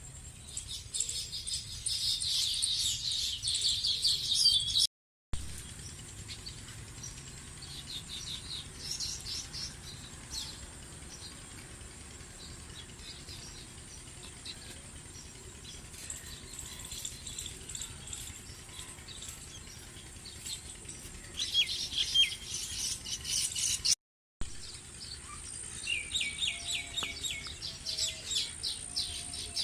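Small birds chirping and twittering in quick runs of high notes, in several spells. The sound cuts to dead silence twice for a moment.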